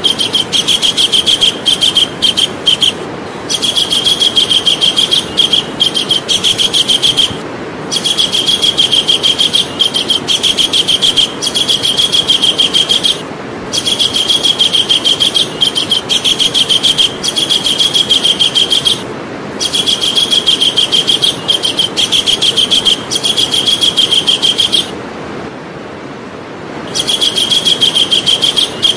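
Javan kingfisher calling: long bouts of rapid, high-pitched, evenly repeated chattering notes, each bout several seconds long, broken by short pauses, with the longest pause near the end. A steady background hiss runs beneath.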